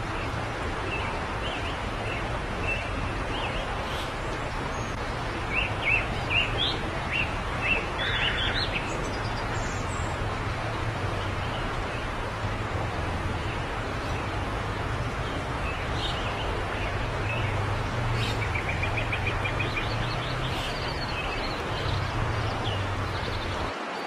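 Short, high bird chirps in a cluster about a quarter of the way in and a brief rapid trill later, over a steady background hiss with a low hum underneath.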